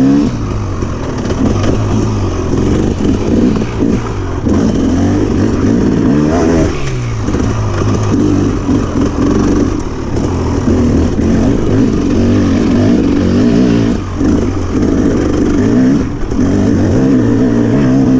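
2006 KTM 300 XC-W two-stroke single-cylinder dirt bike engine being ridden, its pitch repeatedly rising and falling as the throttle is rolled on and off, with short dips in between.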